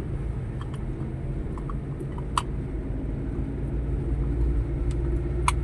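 Steady low rumble of a motor vehicle's engine and road noise, with two short sharp clicks, one about two and a half seconds in and one near the end.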